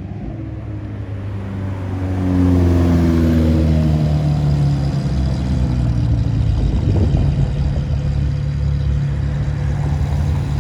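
A car engine getting louder, its note falling in pitch over a few seconds and then holding steady.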